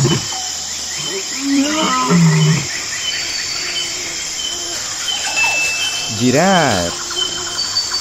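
A lion's roar trailing off in deep grunts, one at the start and another about two seconds in. A steady chorus of bird and insect chirps runs throughout.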